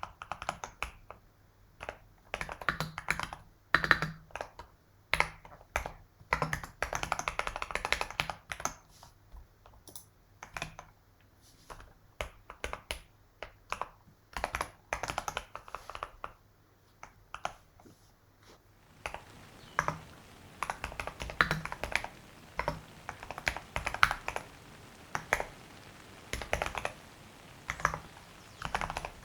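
Typing on a computer keyboard: runs of quick keystroke clicks broken by short pauses. About nineteen seconds in, a faint steady hiss comes up beneath the keys.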